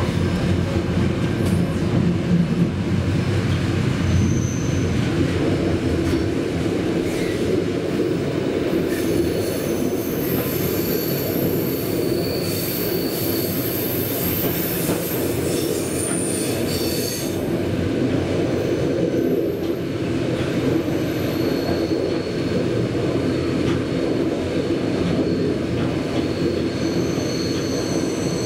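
Flåm Railway train running, heard from inside the carriage: a steady rumble of wheels on rails with a high-pitched metallic squeal that comes and goes. The squeal is strongest from about nine to seventeen seconds in and returns for the last several seconds.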